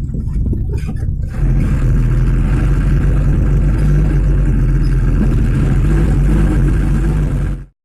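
1995 Mitsubishi Canter truck's diesel engine running with a steady low hum, growing louder about a second and a half in. It cuts off abruptly near the end.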